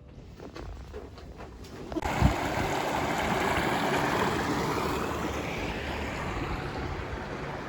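A steady rushing noise starts suddenly about two seconds in, with a single low thump just after it; before that there are only a few faint clicks.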